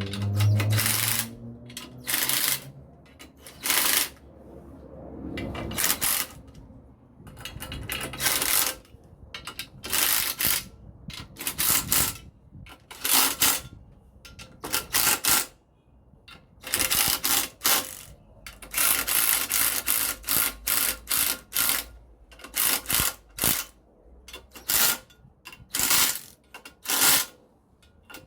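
Irregular clicks, clanks and scrapes of hand tools and metal parts being handled and worked, in bunches of short sharp strokes.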